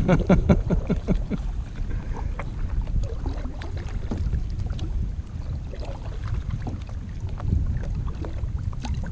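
Wind rumbling on the microphone, with water lapping and small knocks against a kayak; a quick run of clicks and ticks in the first second or so.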